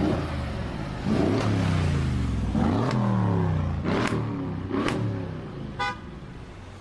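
A Mercedes-AMG car's engine and exhaust, the revs swinging up and down, with four sharp exhaust cracks. The sound fades toward the end, and there is a brief high chirp.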